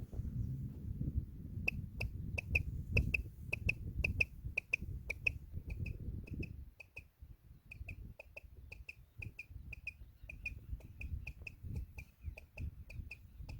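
Quail calling: a long run of short, sharp, high pips, several a second and loosely grouped, starting about two seconds in. A low rumble of wind or handling lies under the first half and stops about halfway through.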